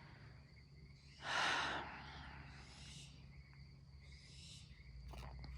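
A single breathy sigh or exhale about a second in, over a faint steady low hum.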